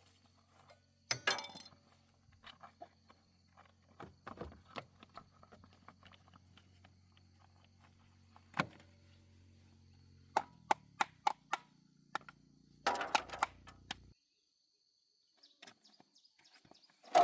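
Scattered sharp knocks and clicks, with a quick run of about six taps and a dense clatter near the end, over a low steady hum that cuts off abruptly.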